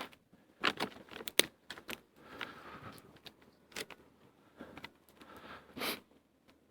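Sticks being laid on a small campfire: scattered sharp snaps and clicks, the loudest about a second and a half in, with soft crackling between.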